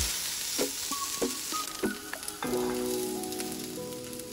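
Chicken breast slices sizzling steadily as they fry on a hot grill pan. Background music plays along, with a few short plinked notes and then held chords from about halfway through.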